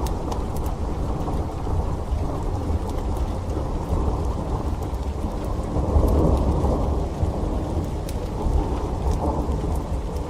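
Rain falling steadily under a low rolling thunder rumble that swells about six seconds in, with scattered faint crackles from a wood fire.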